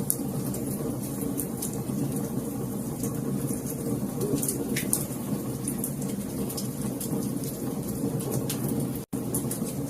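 Wood fire crackling in a fireplace: a steady low rush of flames under frequent small sharp pops and snaps. The sound cuts out for an instant about nine seconds in.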